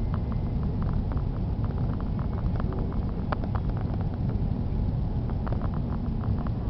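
Steady low roar of an Airbus A330 heard from inside the passenger cabin, with scattered light clicks and rattles over it.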